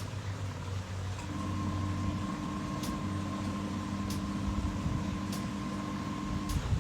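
Portable mini washing machine's motor running, a steady electric hum whose tone shifts about a second in and changes again near the end, as the agitator switches direction. Faint ticks come about once a second.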